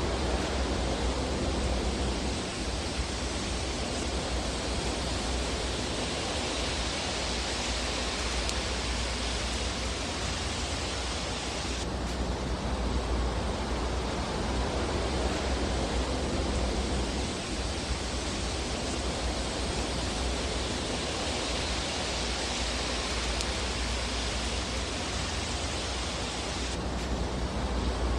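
Fireplace fire sound: a steady hissing rush over a low rumble, with no distinct crackles standing out. The hiss shifts abruptly about twelve seconds in and again near the end, where the looped recording is spliced.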